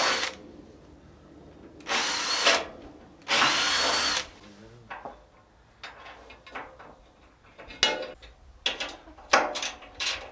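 Power drill running in three short bursts, each under a second, then a scatter of light clicks and knocks.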